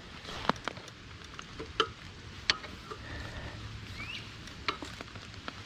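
Hands working at parts on a pit bike: scattered small clicks and light scrapes, irregular, with one short rising bird chirp about four seconds in.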